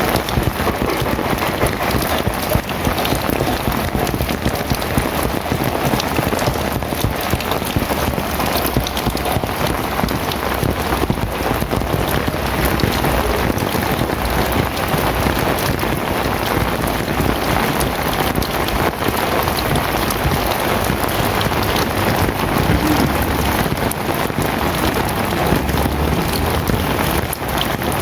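Heavy rain falling steadily, a dense even hiss of drops on surfaces with many small patters.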